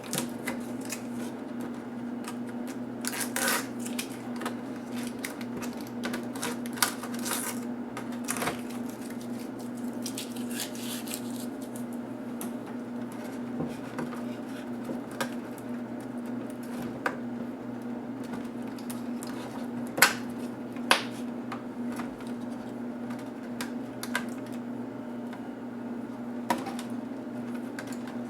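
Scattered clicks and light clatter of small plastic and metal laptop parts and tools being handled during disassembly, the sharpest two about twenty seconds in. A steady low hum runs under them.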